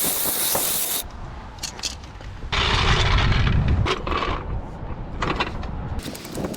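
Handling noises at work: a hiss-like rustle for about the first second, then about a second and a half of scraping and rubbing near the middle, with a few sharp clicks.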